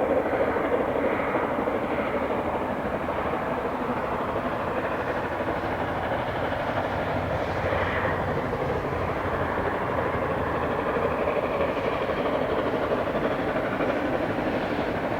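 Steam locomotive working hard up a steep gradient with a train, a steady loud rush of exhaust and running train noise.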